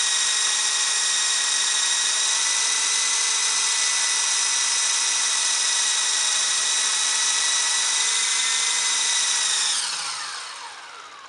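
Shuang Ma (Double Horse) Volcano RC helicopter's electric motors and rotors running steadily on a static test: a high, even whine. Near the end the pitch falls and the sound fades as the motors spin down.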